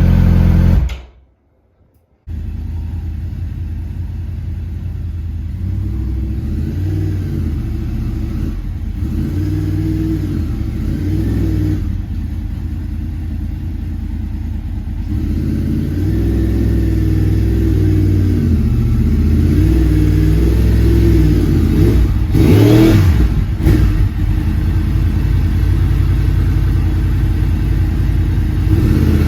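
Sport motorcycle engine running with the revs rising and falling every second or two. It drops out briefly about a second in, and the revs swell louder near the end.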